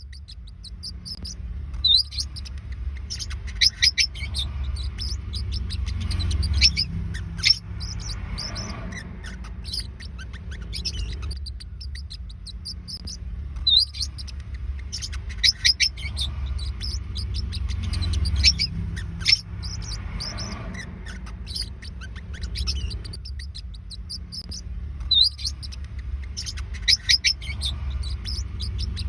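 Forpus parrotlets chirping and twittering: rapid runs of short, high-pitched chirps in clusters with brief pauses, over a steady low rumble.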